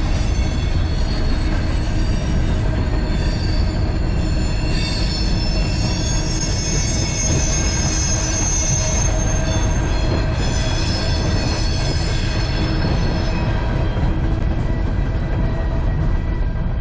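Loaded coal train's open hopper cars rolling past on steel wheels, a steady low rumble with several high-pitched wheel squeals held over it. The squeal fades away in the last few seconds as the last cars go by.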